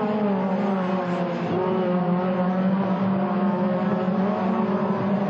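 Race car engines running at a fairly steady pitch that wavers slightly up and down.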